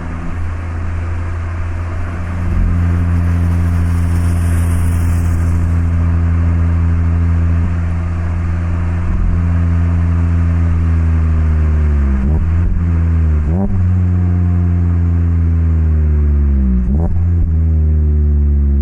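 Mazda MX-5 (ND) 1.5-litre four-cylinder running through an HKS Legamax Sports exhaust while driving at fairly steady revs. In the second half the engine note dips briefly and comes back three times.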